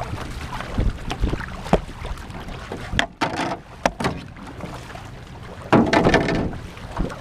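Canoe paddles splashing and water slapping against a hull, with a few sharp knocks and a louder rush of water or wind about six seconds in.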